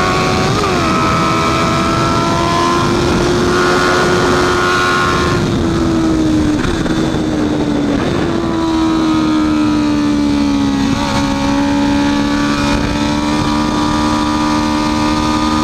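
Honda CB650F inline-four engine running hard at high revs on a race track, its pitch holding steady and stepping down a few times, around a second, six, eight and eleven seconds in. A steady rush of noise runs underneath.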